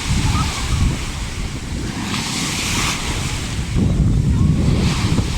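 Sea waves breaking and washing up the beach, with a brief hiss of surf about two seconds in. Strong wind buffets the microphone in gusts, at the start and again about four seconds in.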